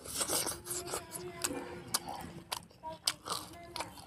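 Close-up mouth sounds of a person eating pork curry and rice: wet chewing and smacking in the first second, then several sharp lip and tongue clicks.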